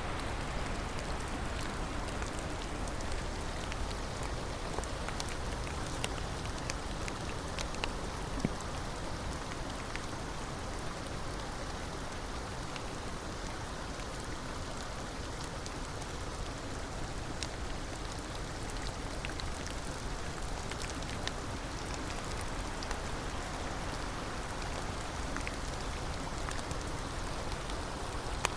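Steady rain: an even hiss with scattered sharp ticks of drops hitting a surface.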